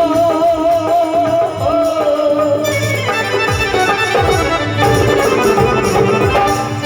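Rajasthani (Marwari) folk music interlude: a held melody line with heavy vibrato over a drum rhythm, with more instruments joining about three seconds in.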